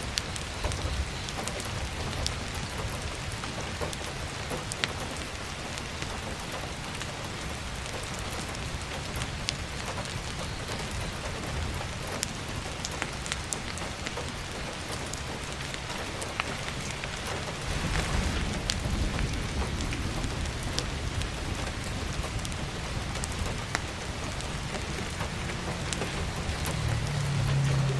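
Heavy rain pattering steadily on a roof and skylight, with scattered sharp crackles from a wood fire. Low rumbles of thunder swell about 18 seconds in and again near the end.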